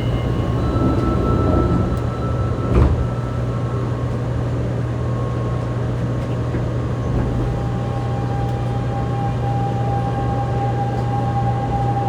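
Inside a Fukuoka City Subway 2000 series car with a Hitachi late-type GTO-VVVF inverter, standing with its doors shut. There is a steady low hum, with one sharp clunk about three seconds in. About seven seconds in, the inverter's steady tone comes in as the train starts to pull away.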